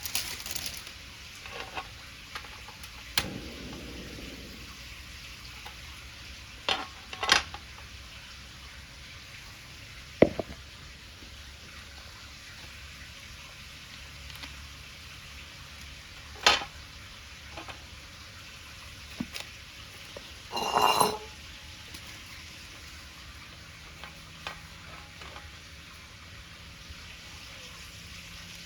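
Pancake cooking in a pan over a wood bonfire: a steady sizzling hiss broken by scattered sharp crackles and clicks. About two-thirds of the way in there is one short ringing squeak.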